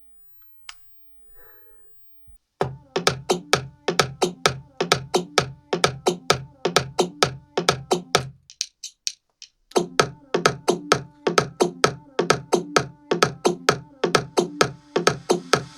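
Electronic dance music played loud through car-audio component speakers, a horn tweeter paired with a midrange driver. The music is a fast, staccato, pitched synth beat that starts about two and a half seconds in and breaks off briefly near the middle. Near the end a rising hiss builds.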